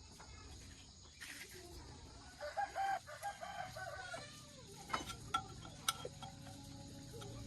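A single drawn-out animal call about two and a half seconds in, ending on a falling note, followed a second later by a few sharp clicks or knocks.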